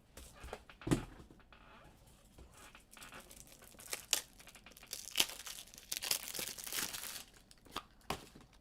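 Packaging being crinkled and torn by hand, with a single knock about a second in and a crinkly, scratchy stretch through the middle.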